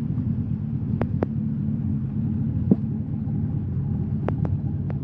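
Engine of a widebody Nissan S15 Silvia running with a steady low rumble as the car rolls slowly at low revs, with a few sharp ticks scattered over it.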